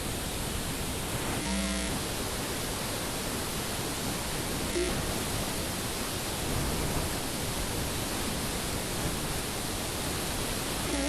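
A steady, even hiss of recording noise, with brief musical notes showing through about a second and a half in and again near five seconds.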